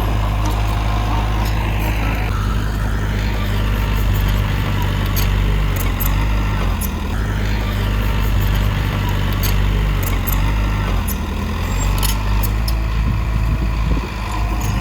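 Heavy diesel earthmoving machinery running steadily, with scattered sharp clicks and clanks.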